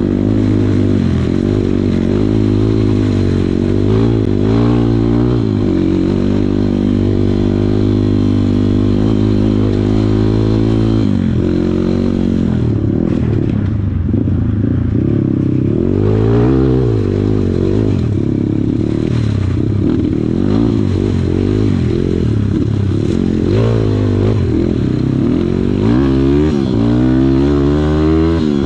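Kawasaki KLX140 dirt bike's single-cylinder four-stroke engine being ridden hard, its pitch rising and falling again and again as the throttle is opened and closed and the gears change.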